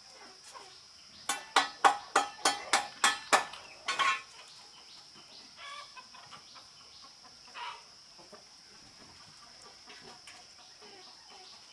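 Chicken clucking: a quick run of about eight short, sharp clucks, then one longer call, with a few fainter clucks later. A steady high insect drone runs underneath.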